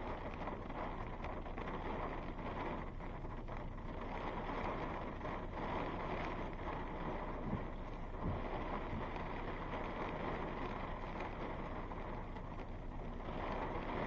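Steady rushing noise of thunderstorm wind, with a few faint low thumps.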